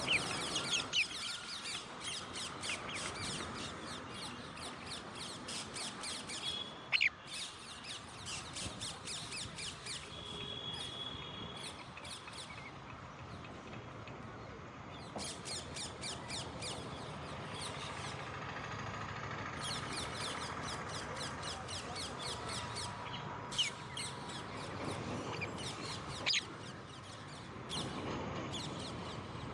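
Alexandrine parakeets chattering in rapid runs of short high chirps, with a few sharp, louder squawks.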